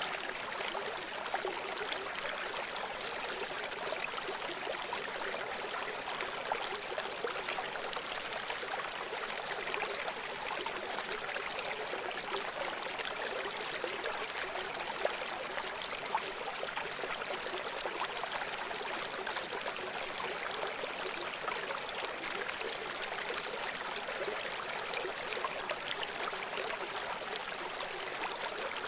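Small stream running steadily, water splashing and trickling over stones with a dense, even rush.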